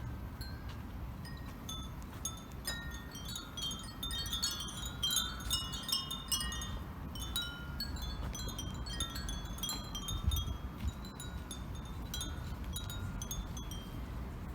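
Many Japanese furin wind bells tinkling in the breeze, a dense flurry of overlapping high rings about four to seven seconds in that thins out toward the end, over a low steady background rumble.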